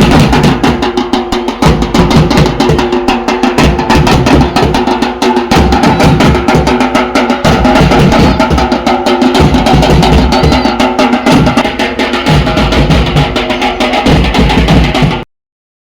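Loud, fast drumming in a dense run of strokes over steady sustained tones. It cuts off abruptly about fifteen seconds in.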